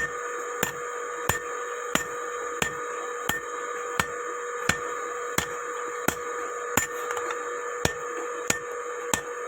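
Blacksmith's hammer striking metal in a steady rhythm, about three blows every two seconds, each with a short ring, over a steady hum.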